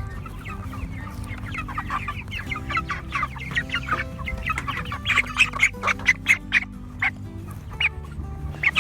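Cornish Cross broiler chickens clucking and calling in a flock, with the calls coming thicker and louder about halfway through.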